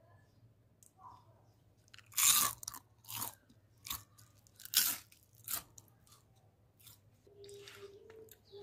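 Someone chewing crispy fried potato twists: five loud crunches, roughly one every second.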